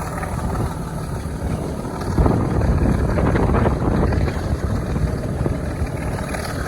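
Diesel locomotive working, heard from a moving train with wind buffeting the microphone; the rumble gets louder about two seconds in.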